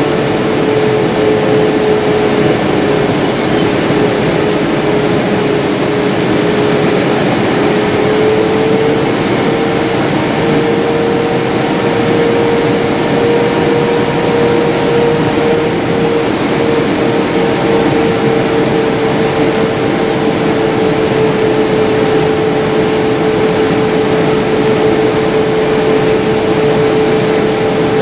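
Steady cabin noise of a jet airliner in flight: engine and airflow rush with a steady hum that rises slightly in pitch about eight seconds in.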